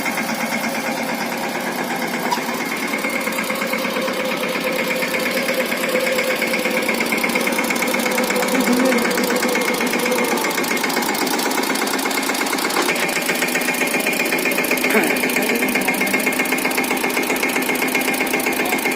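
Single-cylinder diesel engine of a Mahindra Yuvraj 215 NXT mini tractor running steadily with a rapid, even beat.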